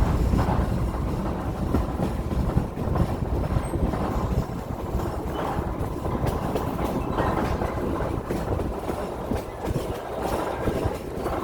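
Heritage railroad passenger car rolling along the track, heard from on board: a steady rumble of wheels on rail with scattered clicks.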